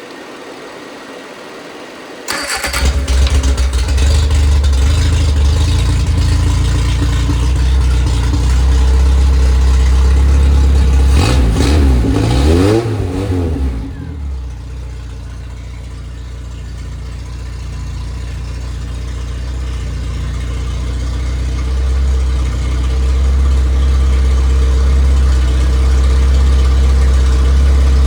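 Freshly rebuilt MG Midget 1500 four-cylinder overhead-valve engine on the test stand starting about two seconds in, then running steadily. It is blipped up and down a few times near the middle, then drops to a lower idle that slowly builds in speed.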